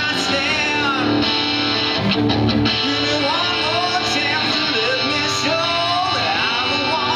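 Live band music: a song driven by strummed guitar, with a man's singing voice coming in about halfway through.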